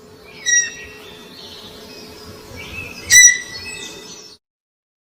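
Two short, high-pitched animal calls about two and a half seconds apart, over a faint steady outdoor background. They are played as the sound a deer makes.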